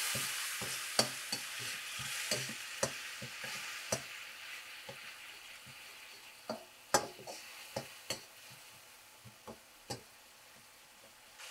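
Chili paste with just-added sugar and tamarind frying in a wok, sizzling while a perforated metal skimmer stirs it, scraping and clicking against the pan. The sizzle gradually fades, and the sharpest metal clicks come around the middle.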